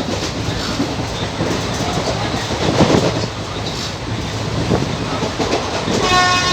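Express train coaches rolling past at speed, wheels clattering over the rail joints with a steady rumble. Near the end a train horn starts to sound.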